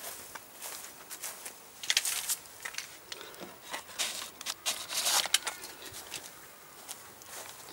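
American crows cawing a few times, with harsh calls about two and five seconds in, among scattered clicks and rustling.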